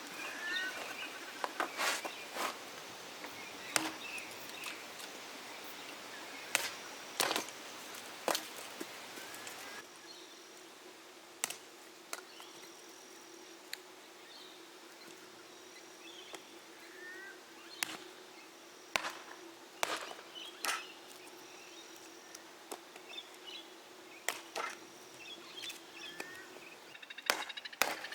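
Outdoor bush-camp sounds: irregular sharp clicks and knocks, with small birds chirping and whistling between them. A steady low hum comes in about ten seconds in and fades out a couple of seconds before the end.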